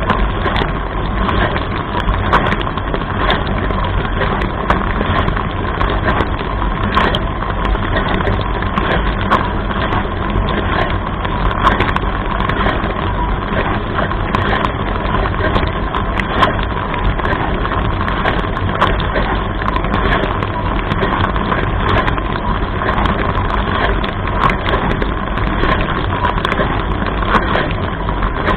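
Dishwasher running its wash cycle: water from the spray arms splashing steadily over the racks and walls, with frequent irregular sharp ticks and a faint steady hum.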